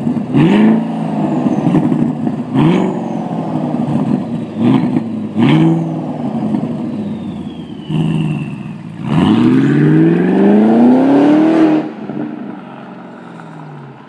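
Audi RS6 engine and exhaust being revved: about four quick throttle blips, each rising and falling back, then one longer rev climbing steadily in pitch for about three seconds before the throttle is released and it drops back, falling quieter near the end.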